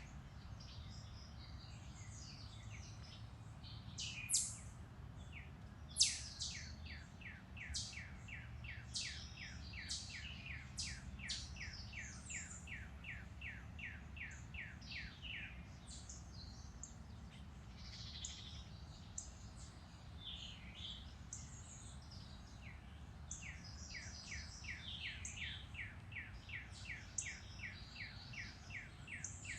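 Woodland birds singing: one bird repeats short, sharp down-slurred notes about three a second in two long runs, with other chirps scattered around it. A low steady rumble runs underneath.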